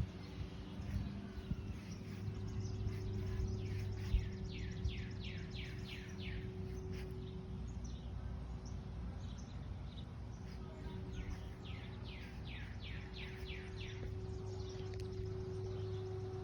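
A songbird singing twice, each song a quick run of about ten downslurred notes, over a steady low hum.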